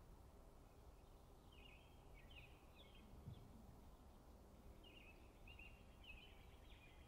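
Near silence: faint background hum with distant birds chirping in two short runs.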